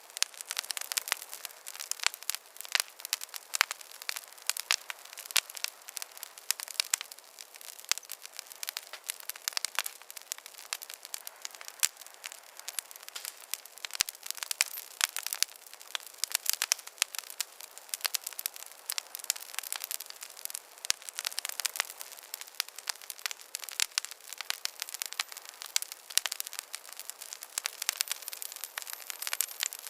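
Wood campfire burning with dense, constant crackling: many sharp pops and snaps over a soft steady hiss.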